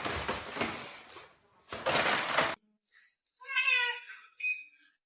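Loud rough noise that cuts off abruptly, then after a short pause a cat meows once, followed by a short higher mew.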